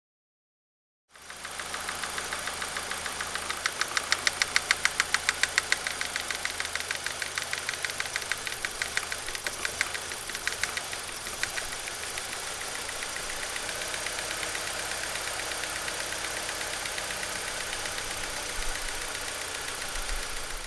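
BMW N42 four-cylinder engine idling with a rapid metallic ticking rattle from the top end, loudest a few seconds in, then settling to a steadier run. The tick is the sign of a broken Valvetronic torsion spring. The sound starts after about a second of silence.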